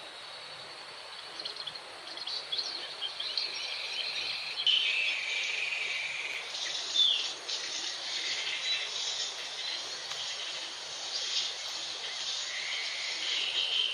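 Recorded bird calls played from an MP3 player as a lure for brown jongkangan, starting about a second and a half in as a busy run of high chirps over a steady insect buzz.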